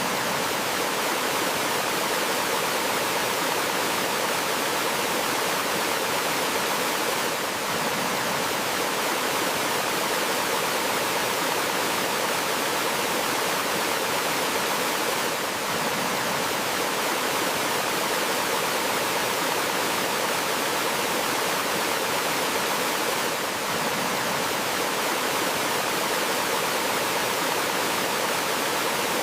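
Small forest waterfall and stream running steadily, an even rushing of water with a brief slight dip in loudness about every eight seconds.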